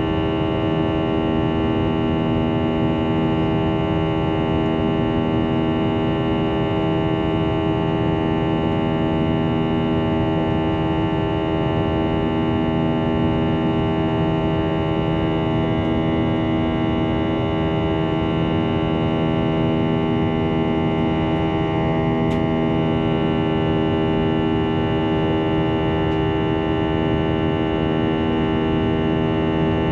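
Airbus A321 cabin drone at the window: the steady hum of the IAE V2500 engines and airflow, with many steady tones layered over it.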